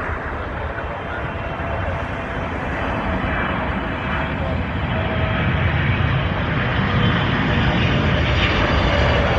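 Boeing 777 airliner's jet engines on landing approach: a broad rumble with a faint steady whine, growing steadily louder as the aircraft comes closer.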